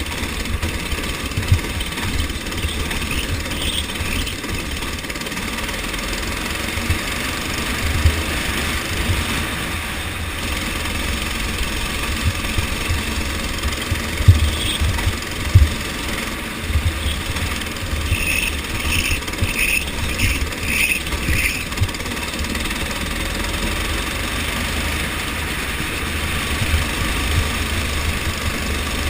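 Go-kart engine running during a race, under a heavy low rumble with frequent sharp thumps. A quick run of about seven short high chirps comes a little past the middle.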